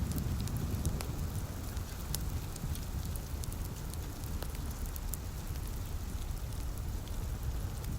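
Wood fire crackling with scattered sharp pops, layered over the steady patter of light rain, with a low rumble underneath.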